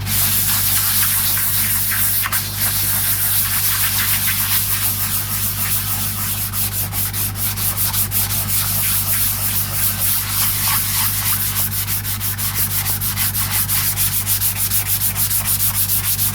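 Sandpaper on a hand block sanding dried grain filler on a Telecaster guitar body, in continuous back-and-forth strokes that settle into a quick, even rhythm of about four strokes a second in the second half. A steady low hum runs underneath.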